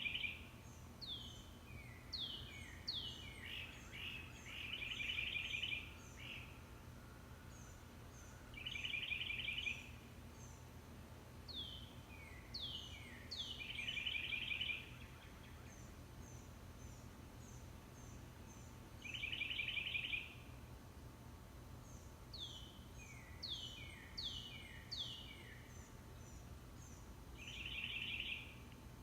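Birds singing: short trills about a second long alternating with quick runs of three or four falling whistled notes, with faint high chirps in between.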